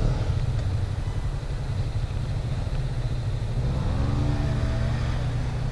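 Motorcycle engines idling together in a low, steady rumble. About four seconds in, one engine note rises briefly.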